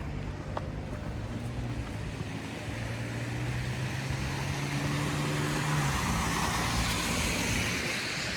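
City street traffic: a vehicle engine runs with a steady low hum, then the tyre noise of a passing car swells, loudest near the end.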